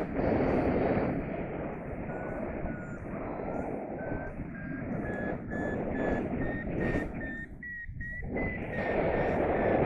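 Paragliding variometer beeping in short repeated tones whose pitch climbs slowly and eases slightly near the end, the signal of the glider climbing in lift. Heavy wind rush on the microphone lies under it.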